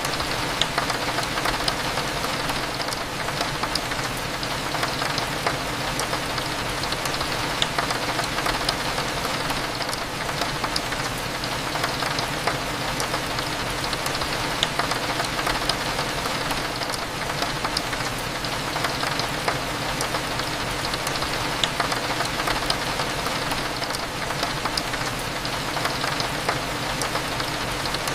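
Steady rain with many small drops ticking, over a low steady hum.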